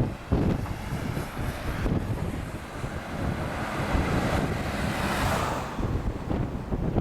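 Strong wind buffeting the microphone, with an easyJet airliner's jet engines swelling to a peak about five seconds in and then fading.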